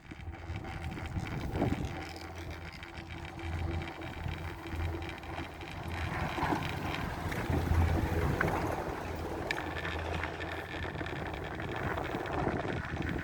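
Four-seat chairlift running: a low mechanical hum that swells and fades, with wind on the microphone.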